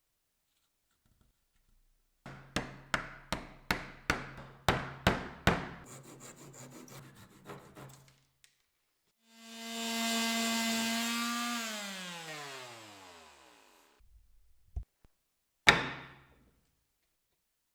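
Woodworking tool sounds on wood: a quick run of about nine sharp knocks, a short rasping, then a power tool spinning and winding down with falling pitch, and one loud knock near the end.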